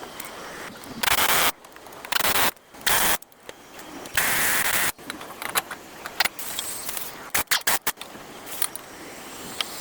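Workshop tool noise from a front wheel hub job: four short, loud noisy bursts in the first five seconds, then a string of sharp metallic clicks and clinks.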